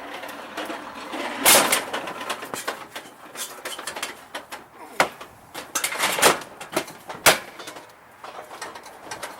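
A run of knocks, clunks and clicks from a snowblower being handled, with sharp knocks about a second and a half in and around five, six and seven seconds in.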